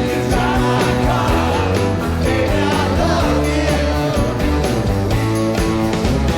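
Rock band playing live at full volume: electric bass, guitars and a steady drum beat, with some singing.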